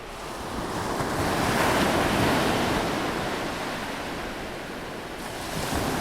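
Ocean surf breaking on a beach: a wave builds, crashes about two seconds in and washes away, and a smaller wave breaks near the end.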